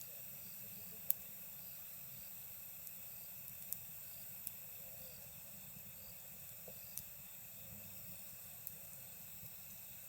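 Wood campfire crackling, with a few sharp pops scattered through, the loudest about a second in, over the steady high-pitched chirring of night insects.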